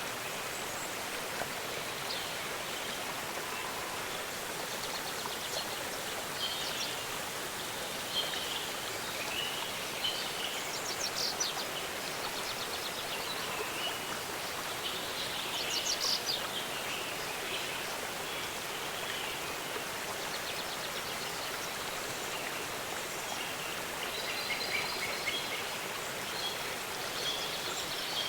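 Waterfall rushing steadily, with small songbirds chirping and trilling over it, several short calls scattered throughout and a burst of rapid trills about ten and sixteen seconds in.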